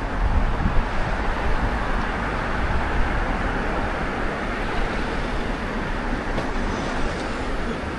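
Steady rushing noise of a city street in a gale: strong wind mixed with passing traffic, with a heavy low rumble.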